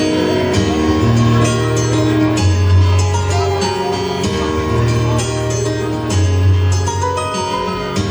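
Live band playing an instrumental passage: long held bass notes under sustained chords, with a steady beat of drum and cymbal strokes.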